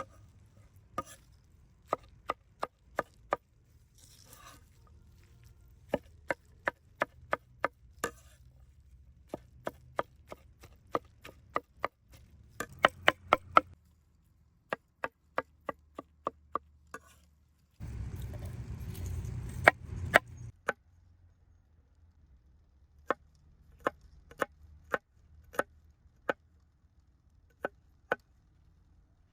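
Knife chopping on a wooden cutting board, in runs of quick, sharp strokes with short pauses between. About two-thirds of the way through, a louder stretch of noise lasts a couple of seconds.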